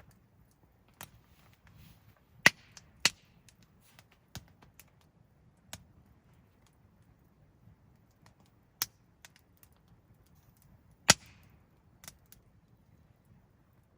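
Freshly lit campfire of resinous fatwood kindling and firewood crackling in a fire pit: irregular sharp pops and snaps a second or more apart over a faint low hiss, with two loud pops close together about two and a half seconds in and another loud one about eleven seconds in.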